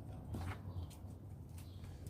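3.0-litre V6 of a stock 2000 Mitsubishi Eclipse idling quietly through its stock exhaust as a steady low hum, with a couple of faint clicks about half a second in and near the end.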